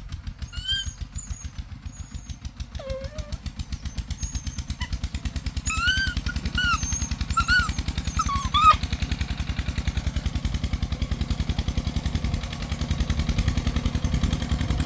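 A small engine running steadily with rapid, even firing pulses, growing louder, like a motorcycle or small farm engine idling nearby. Over it come a few short, high-pitched yelps, clustered about six to nine seconds in.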